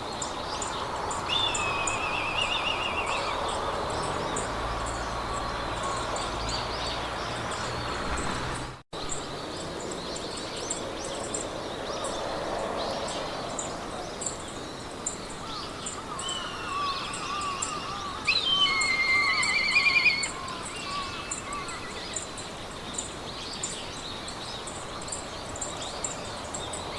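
Meadow ambience: several small songbirds singing trills and warbles, most prominently about two-thirds of the way in, over a soft wind-like hiss and a rapid, evenly repeating high chirping. The sound drops out abruptly for a moment about 9 s in.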